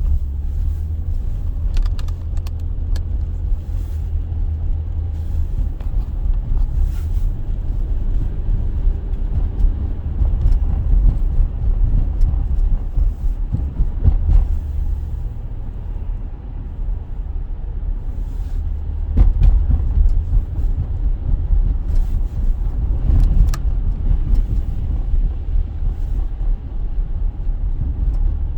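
Steady low rumble of a car driving slowly, heard from inside the cabin, with a few faint knocks and rattles.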